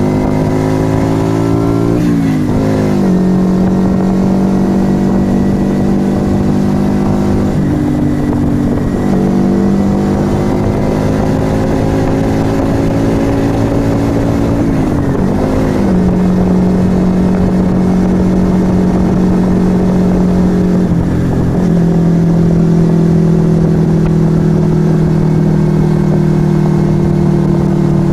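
Yamaha XV125 Virago's small air-cooled V-twin running under way through a Turbo Kit aftermarket exhaust, with wind rush. The engine note holds fairly even and then changes pitch abruptly several times as the throttle eases off and gears change.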